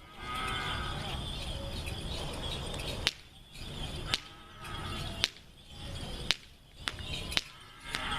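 DRT King spider firework going off: a rushing hiss for about three seconds, then a string of sharp cracks, roughly one a second.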